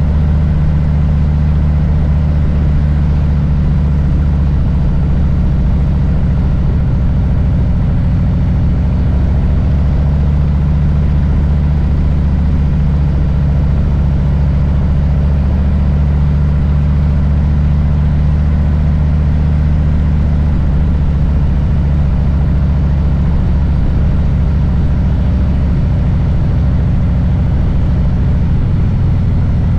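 Harley-Davidson Low Rider S's Milwaukee-Eight V-twin running steadily with a deep, even note, shifting slightly a few seconds before the end.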